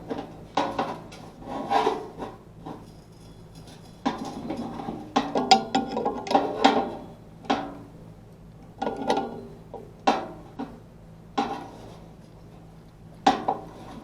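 Irregular knocks, clicks and scrapes of hands working with tools and parts, in clusters every second or two, over a faint steady hum.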